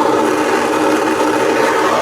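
Handheld gas plumbing torch burning with a steady rushing flame, heating a copper pipe joint for soldering.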